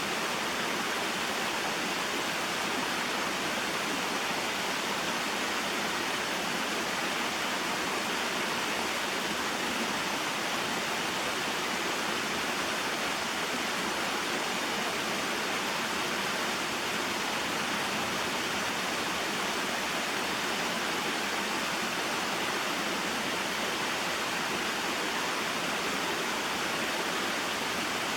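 Small mountain waterfall and stream: a steady, even rush of falling and flowing water.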